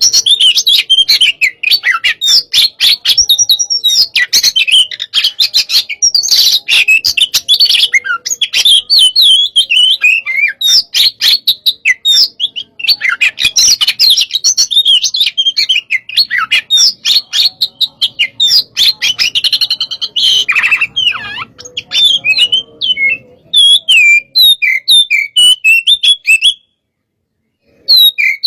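Oriental magpie-robin (kacer) singing a fast, heated song: a dense, unbroken run of sharp chirps and whistles. It breaks off for about a second near the end, then starts again.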